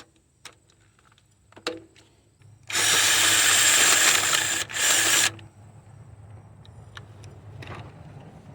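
A few light metal clicks, then a power impact wrench running in a long burst of about two seconds and a short second burst, spinning out a bolt.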